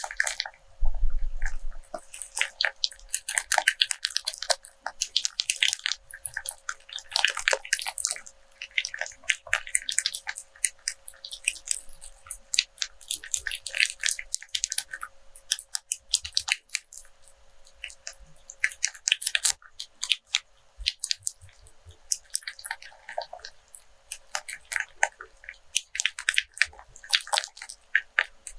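Rope handled close to the microphone: its fibres crackle and rustle in dense runs of small clicks, coming in bursts of a second or two with short pauses between. A low thump about a second in.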